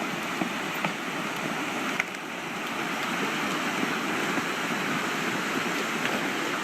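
Steady rushing, water-like noise of a sinkhole collapsing, with a few faint sharp cracks.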